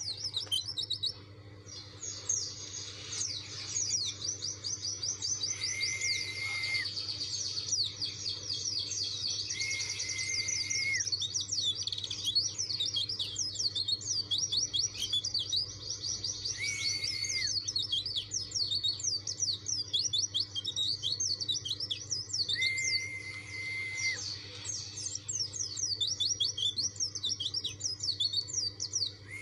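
Pleci dakun white-eye singing nonstop: a dense, rapid, high chattering warble, the insistent challenge song of a bird seeking a rival. A level whistle of about a second, lower in pitch, recurs about every five to six seconds.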